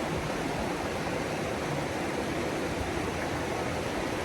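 Mountain creek water flowing over rocks: a steady rushing.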